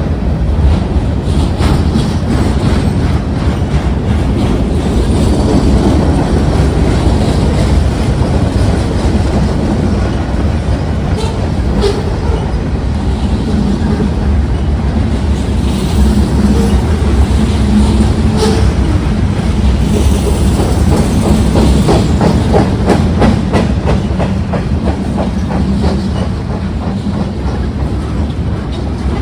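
A train rolling past, its cars' wheels running with a steady low rumble and clicking rhythmically over rail joints, the clicks coming closer together in the second half.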